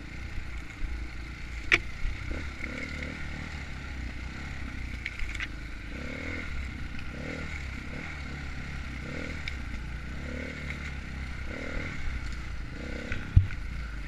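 Enduro dirt bike engine running as it is ridden over rough trail, with clatter and knocks from the bike. There is a sharp hit a little under two seconds in and a louder one near the end.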